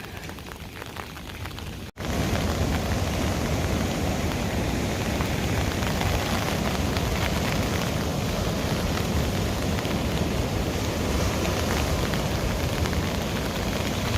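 Heavy rain falling steadily. About two seconds in, the sound cuts out for an instant and comes back louder and fuller, with more low rumble.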